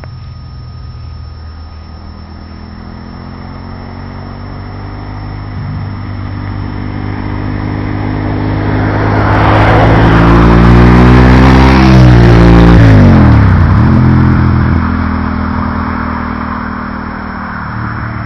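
Suzuki SV1000S's V-twin engine through Viper race-can exhausts, passing at high speed. Its note climbs steadily as the bike approaches and accelerates, is loudest about twelve seconds in, then drops sharply in pitch as the bike goes by and fades away.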